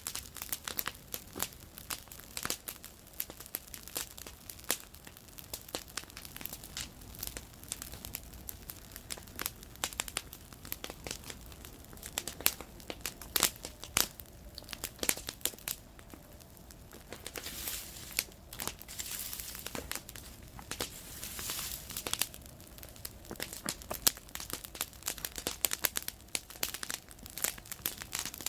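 Wood campfire crackling, with irregular sharp pops and snaps over a soft hiss; a few louder pops stand out about halfway through and again near the end.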